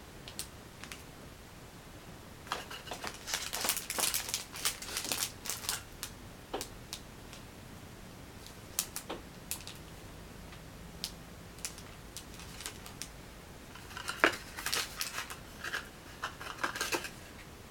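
Product packaging being handled by hand: two spells of quick clicks, taps and crinkles of cardboard and wrapping, with a few single ticks between them.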